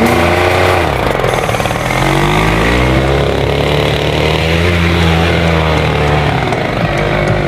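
Dirt-bike engine revving hard under load on a steep hill climb, its pitch climbing and dipping as the throttle is worked.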